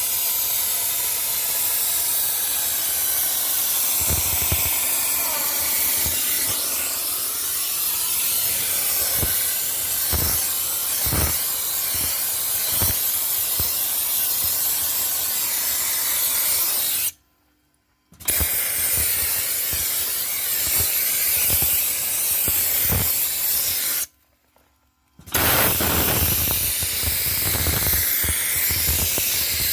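Dry-ice blaster nozzle hissing steadily as compressed air drives dry-ice pellets at a car's engine bay. The blast cuts off abruptly twice, for about a second each, when the trigger is released, and scattered low knocks sound under the hiss.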